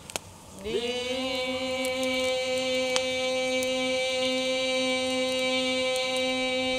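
One long chanted note: after a brief pause the voice slides up into pitch about a second in and holds it steady.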